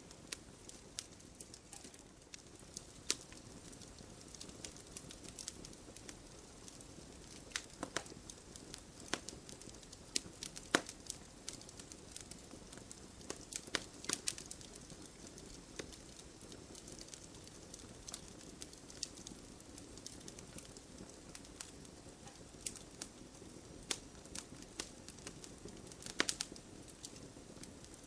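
Wood fire burning in a fireplace: a low, steady hiss with frequent irregular crackles and sharp pops, a few louder snaps standing out.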